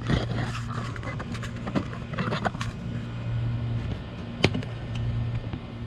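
Hands handling a reptile nest box and digging through its nesting substrate: irregular scraping and rustling with sharp clicks, the loudest click about four and a half seconds in, over a steady low hum.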